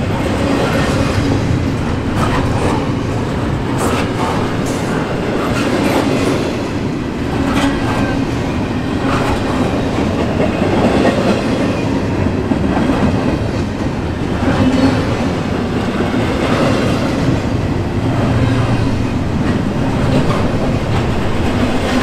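Double-stack intermodal container well cars rolling past: a steady rumble of steel wheels on rail, with frequent irregular clicks and clacks from the wheels and cars.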